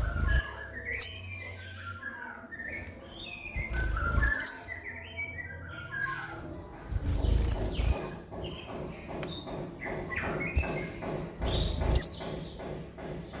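A kolibri ninja sunbird singing a rapid twittering song, broken by three sharp, loud, high chirps that drop in pitch: one about a second in, one around four and a half seconds, and one near the end. Low rumbles come and go underneath.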